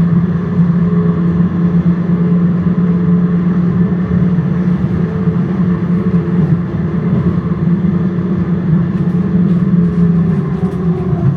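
Tram running along the street, heard from inside the car: a steady loud low hum of motors and wheels on rail, with a faint falling tone near the end.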